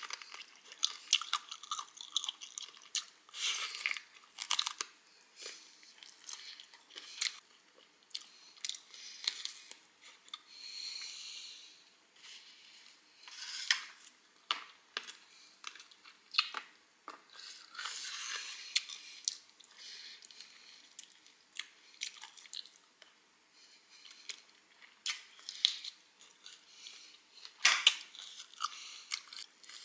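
Close-miked chewing of chicken: irregular wet crunches and mouth clicks with no steady rhythm.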